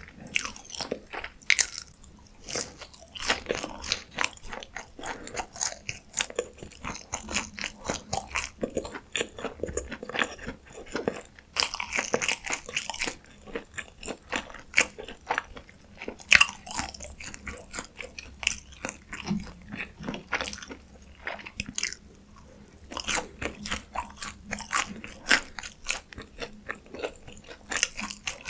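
Close-miked eating: a person biting into and chewing crisp fast food, a dense run of crunchy, crackling chews with a few brief pauses.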